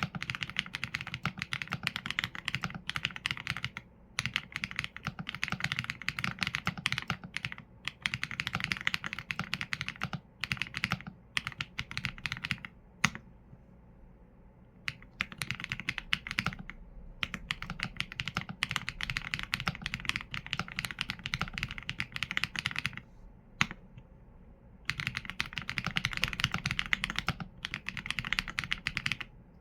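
Typing on a mechanical keyboard with Leobog Graywood V4 linear switches and PBT keycaps: quick runs of keystrokes in bursts of a few seconds, broken by short pauses, with one louder single keystroke about 13 seconds in.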